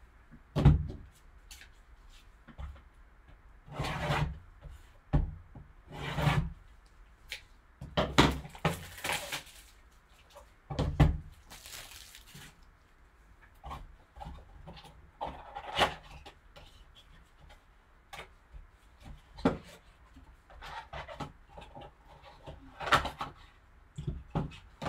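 A sealed trading-card box being unwrapped and opened by hand. There are irregular knocks and rubs of cardboard, and a couple of longer stretches of rustling, tearing wrapping about a third and halfway through.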